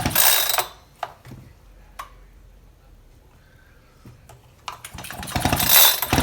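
Echo chainsaw's recoil starter rope pulled, turning the engine over by hand: a short rasping pull at the start, a couple of light clicks, then two long rasping pulls near the end. The engine turns over freely.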